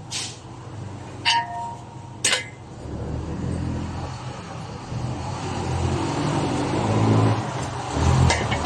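Three sharp metallic clinks, one ringing briefly, followed by a low motor-vehicle engine rumble that grows steadily louder.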